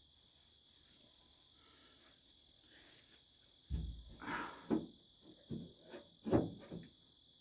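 Crickets chirping steadily in the background. From about halfway in comes a run of irregular knocks, clunks and scrapes as the door latch and its linkage are worked into place inside an old pickup's steel door.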